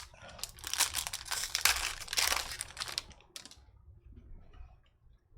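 A trading-card pack wrapper being torn open and crinkled for about three seconds, then fainter rustling of handling.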